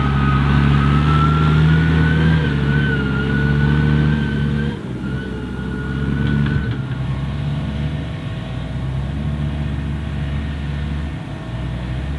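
Heavy diesel harvesting machinery at work in a maize field: a forage harvester and tractors running steadily under load. A high whine rises slightly, then stops about five seconds in, and the sound settles a little lower about seven seconds in.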